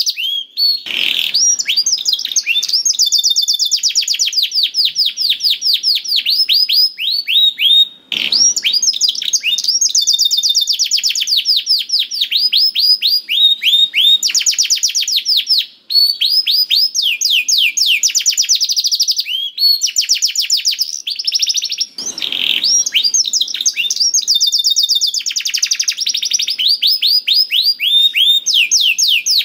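Domestic canary in full, nonstop song: long rolling trills of rapid repeated notes, the phrases changing speed and pitch, with only a few short breaks.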